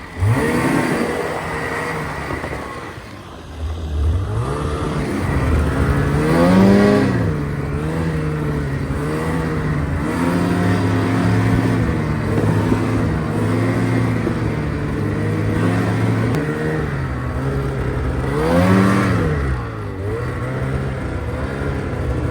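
Snowmobile engine running under way, its pitch rising and falling as the throttle is opened and eased. There is a lull about three seconds in, and hard revs at about six and a half and nineteen seconds.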